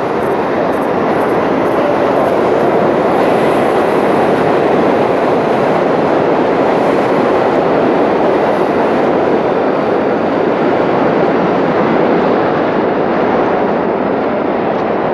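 New York City subway train running through the station: a loud, steady rumble that swells slightly and eases near the end.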